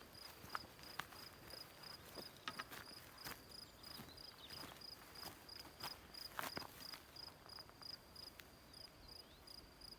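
A cricket chirping steadily at about three short chirps a second, with a few scattered sharp clicks and knocks.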